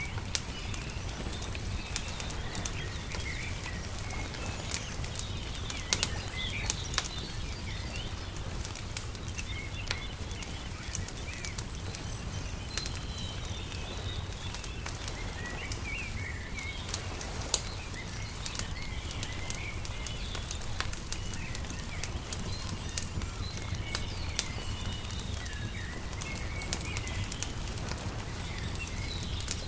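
Wood fire crackling with irregular sharp pops, over a steady low rumble, while small birds chirp throughout.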